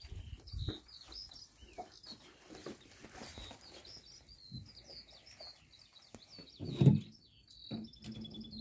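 Small birds chirping over and over in the background, with a short trill near the end. A single loud low thump about seven seconds in.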